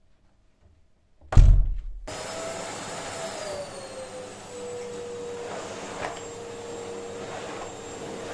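A vacuum cleaner switched on about a second in with a brief loud low thump, then running steadily, its motor hum dropping a little in pitch and holding.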